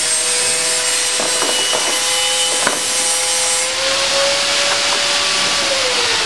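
Homemade slot milling machine running, its hand-drill motors whining steadily under a dense rasping noise of the cutters milling slots in wood. A few light clicks in the first half, and near the end the whine drops in pitch.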